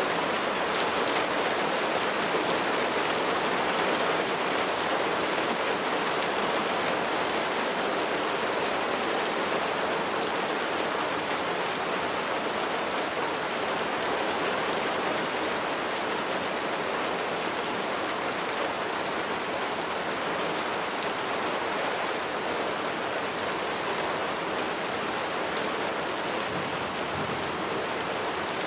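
Steady rain falling on surfaces, a continuous hiss with individual drops ticking through it.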